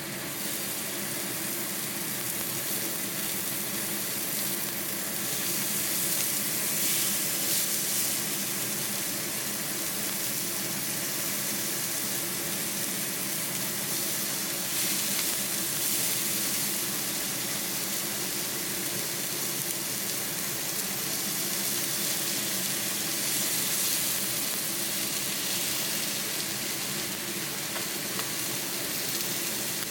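Korean BBQ meat sizzling steadily on a hot grill.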